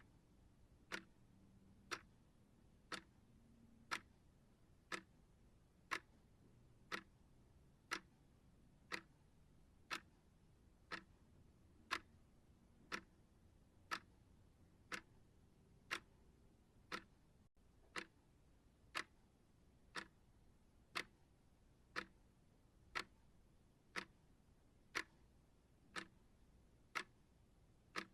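Steady clock ticking, one even tick every second.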